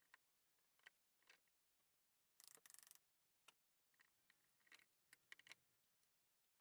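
Near silence, with a few faint scattered clicks and one brief rasping scrape about two and a half seconds in.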